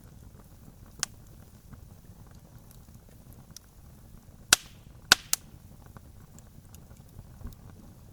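Wood campfire crackling: soft scattered ticks over a low steady background, with a few sharp loud pops, one about a second in and three close together in the middle.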